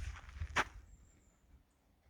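Footsteps of a person walking on an outdoor path: one clear step about half a second in, after which the steps fade away.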